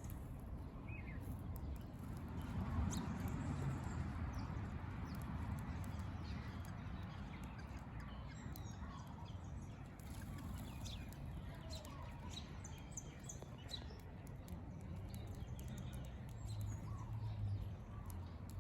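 Wild birds chirping with short, scattered high calls and brief pitch glides, over a steady low rumble.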